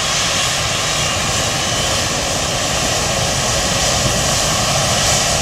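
Jet airliner's engines running steadily as it lands, a loud, even noise with a faint high whistle in the first couple of seconds.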